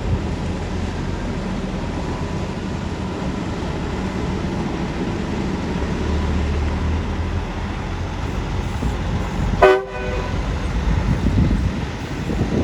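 Steady rumble of road traffic going by, with one short horn honk near the end.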